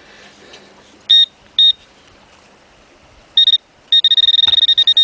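Handheld metal-detecting pinpointer beeping as it nears a metal target: two short high beeps, a third a couple of seconds later, then a continuous rapidly pulsing tone for the last second as it sits right on the target.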